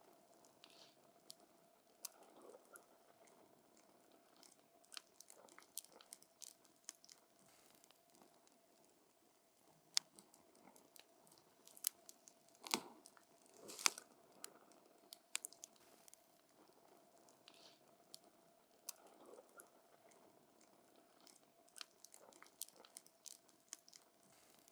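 Wood campfire crackling: scattered sharp pops and snaps at an irregular pace over a soft hiss, with a few louder pops near the middle.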